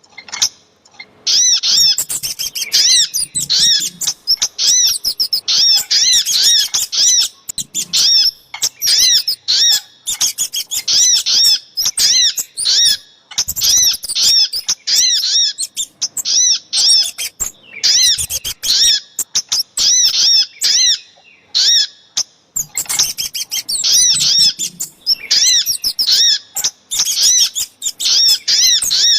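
Small songbirds, the sogok ontong and kemade of a bird-trapping lure recording, calling in rapid runs of short, high chirps. The runs repeat with brief pauses between them.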